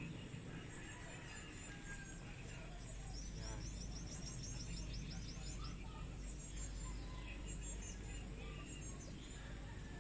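Steady faint hiss of a garden hose spraying a fine mist, with birds chirping; about three seconds in, one bird sings a quick trill of high repeated notes.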